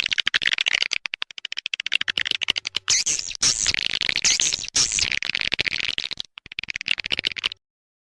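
Swiftlet calling-sound recording: edible-nest swiftlets twittering in fast, high chirps, with runs of rapid clicks. It cuts off abruptly near the end.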